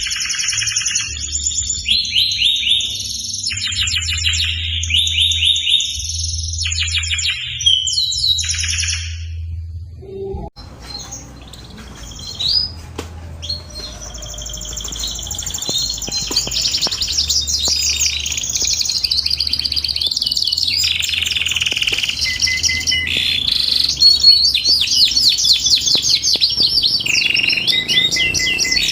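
Domestic canary singing: long runs of fast rolling trills and chirps in repeated phrases. About ten seconds in there is a short break with a click, and the song picks up again, denser and nearly continuous.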